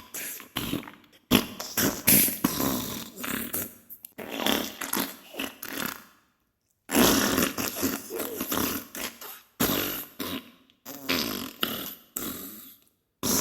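Diarrhea sound effect: a run of wet fart bursts of varying length, separated by short gaps, with one longer pause about halfway through.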